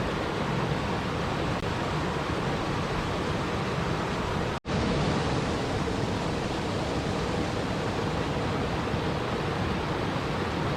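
Steady, even rushing of water with no distinct events, cutting out abruptly for an instant about four and a half seconds in before resuming.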